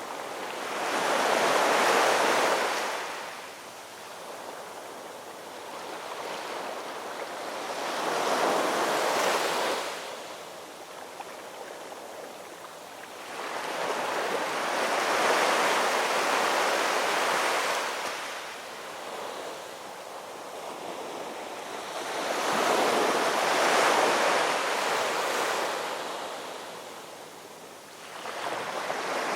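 Ocean surf: waves swell and wash in slowly, one about every six to eight seconds, four in all, with the next one building near the end.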